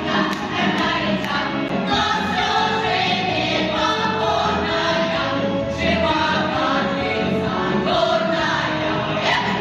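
Several voices singing together to instrumental accompaniment with a steady beat.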